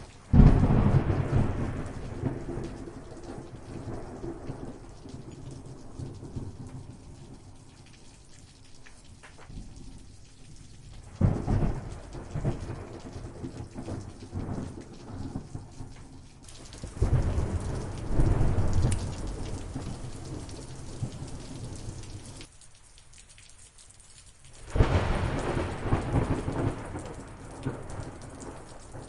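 Steady rain with rolling thunder: four rumbles of thunder, each swelling and fading over a few seconds. The first one comes right at the start and is the loudest, and the other three are spread through the rest of the storm.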